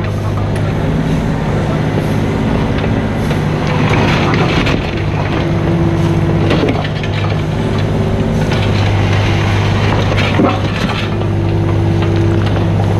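Mini excavator's diesel engine running steadily under work, with scattered knocks and scrapes through it.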